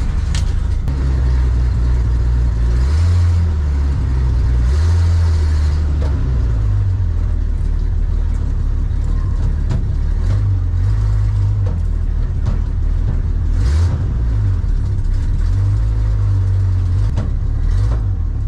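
1965 Ford Econoline's engine running, heard from inside the cab, its speed rising and falling several times as it is revved lightly.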